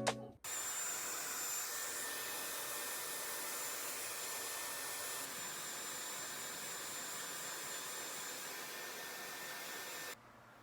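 Steady rushing air noise of a small electric blower motor, with a faint high whine, switched off suddenly near the end.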